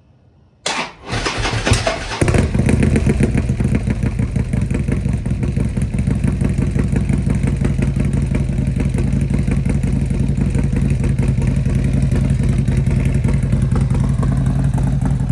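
Harley-Davidson Twin Cam V-twin breathing through a newly fitted DND exhaust, started up: a short crank under a second in, then the engine catches and settles into a steady idle.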